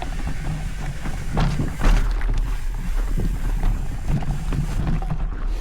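Wind buffeting the microphone over the steady rumble of a mountain bike rolling along a dirt trail, with a few sharp rattles from bumps between one and a half and two and a half seconds in.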